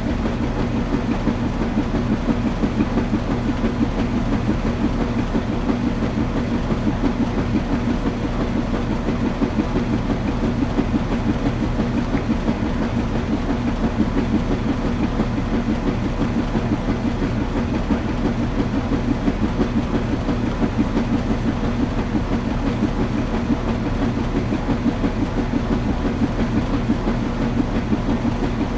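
Washing machine running: a steady low rumble with a faint hum and an even, repeating pulse.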